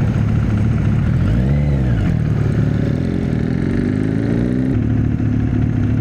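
Husqvarna Svartpilen 401's single-cylinder engine running under way. Its pitch rises and falls briefly about a second and a half in, then climbs steadily as the bike accelerates and drops suddenly just before the end, an upshift.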